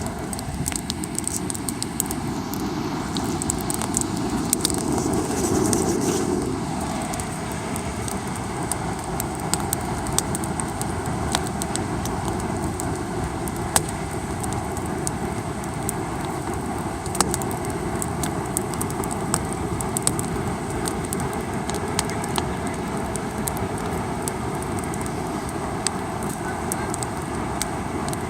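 Wood campfire crackling, with frequent sharp pops and snaps, over a steady rush of ocean surf that swells briefly about five seconds in.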